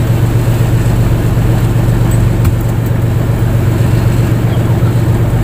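Fishing boat's engine running steadily with a loud, even low hum.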